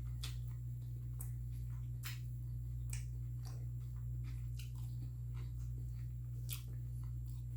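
A person chewing food close to the microphone: irregular soft wet mouth clicks and smacks, over a steady low hum.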